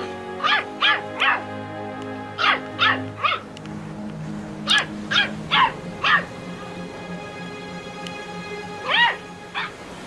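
Puppy yapping in short, high-pitched barks that come in quick runs of three or four, then two more near the end, over steady soft background music.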